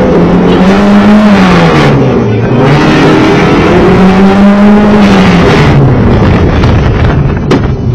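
Opel Corsa 1.6's four-cylinder petrol engine heard from inside the car under hard driving, revving up and falling back twice before settling lower near the end. A sharp click comes shortly before the end.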